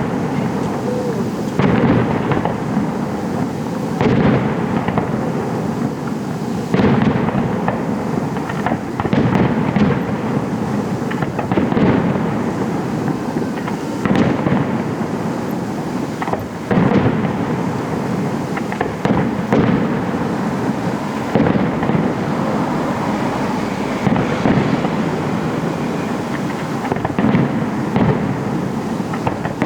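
Fireworks display: aerial shells bursting in quick succession, a loud boom every second or two over continuous crackling and rumbling echo.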